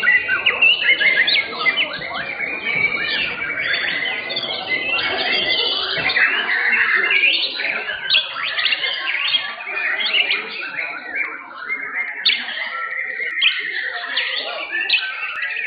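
Several white-rumped shamas (murai batu) singing at once, a dense, unbroken mix of overlapping whistles and chirps.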